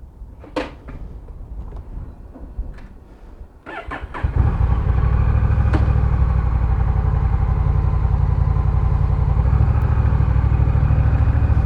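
A few faint clicks, then about four seconds in a Honda Rebel 1100's parallel-twin engine is started. It catches at once and runs at a steady idle.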